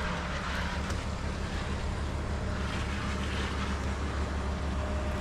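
Fire engine running steadily: a constant low engine drone with a rushing hiss above it.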